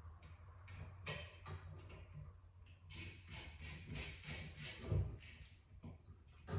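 Irregular light clicks, taps and knocks of hand work on a car's blower motor and its parts, with a low steady hum underneath. A louder knock comes about five seconds in.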